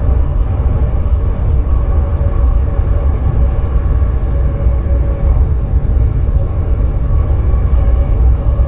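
Sprinter electric train running at speed, heard inside the driver's cab: a steady low rumble from the running gear with a faint even hum above it.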